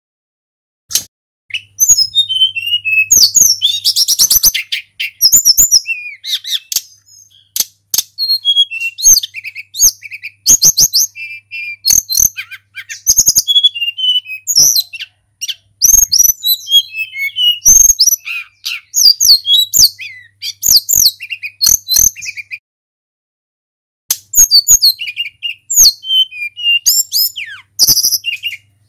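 Tledekan gunung, a small flycatcher, singing a long run of fast, high, varied phrases and trills, with one pause of about a second and a half past the middle.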